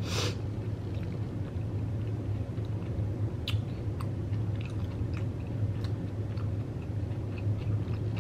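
Chewing a mouthful of Xxtra Hot Cheetos taco bowl, with scattered small crunches and mouth clicks. There is a short puff of breath at the start, all over a steady low hum.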